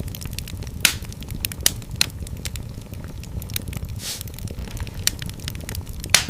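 Fireplace fire crackling: a steady low rumble of flames under frequent sharp pops and snaps. The loudest pops come about a second in, around four seconds and near the end.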